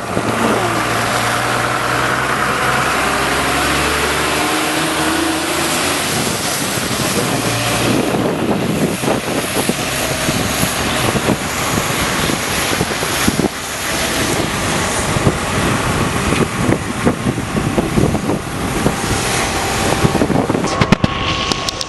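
A motor vehicle's engine running, with a steady low hum for the first few seconds, under a loud rushing noise of wind buffeting the microphone and moving water.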